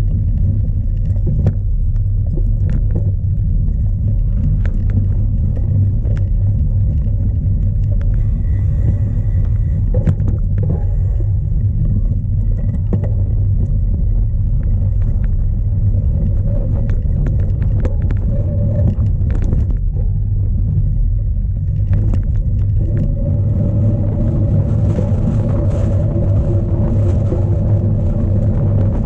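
Strong gusty wind buffeting the microphone of an onboard camera on a cyclocross bike in a race: a loud, constant low rumble. Scattered clicks and rattles come from the bike over rough ground, and from about two-thirds of the way through a louder hiss of tyres and wind rises over it.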